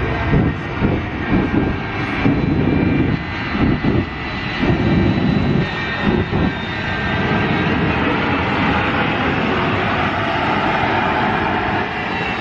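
Airplane engine noise as an aircraft flies overhead, a loud continuous roar that is uneven for the first half and steadier after.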